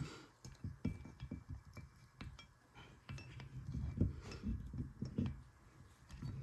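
Small metal engine parts clinking and knocking irregularly as the crankshaft counterweight and its hanger links are fitted onto the crankshaft of a Briggs and Stratton engine.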